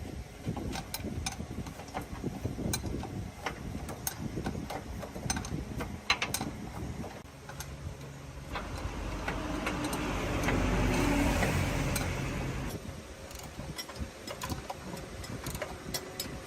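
Metal parts and hand tools clicking and knocking, irregularly, with a louder, steadier mechanical whirring for a few seconds about halfway through.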